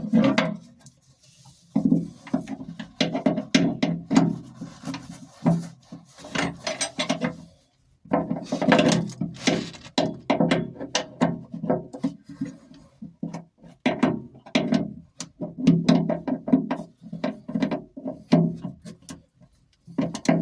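Hand tools working nuts and bolts on a narrowboat engine in a cramped engine bay: irregular ratcheting clicks and metal clatter, broken by a few short pauses.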